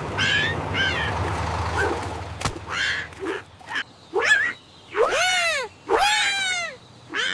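A run of short, high-pitched, meow-like vocal calls that rise and fall in pitch, ending with two longer arching calls, over a low hum that fades out after about two seconds.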